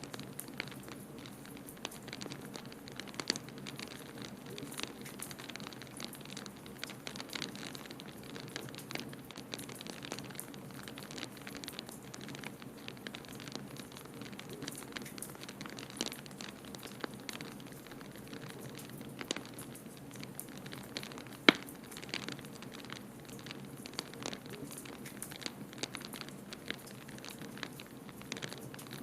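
Wood fire in a fireplace crackling steadily, with many small snaps and one sharp loud pop about three-quarters of the way through, over a steady low rush.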